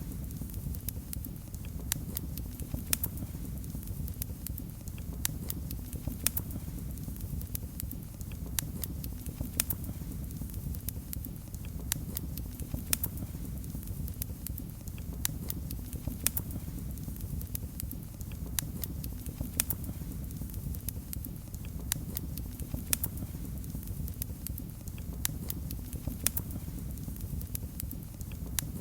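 Fire in a fireplace crackling: irregular sharp crackles and pops, a few a second, over a steady low rumble of the flames.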